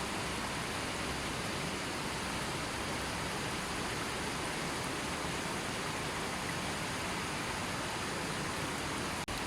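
River water flowing steadily, an even rushing wash with no birds or other sounds over it. It cuts out for a split second near the end.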